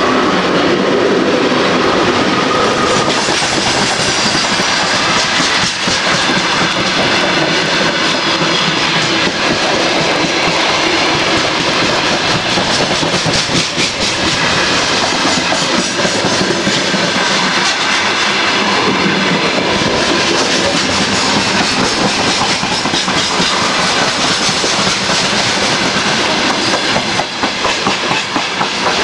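Interior running noise of a moving train carriage: a steady loud rumble and hiss of wheels on rails, with a constant rattling clatter.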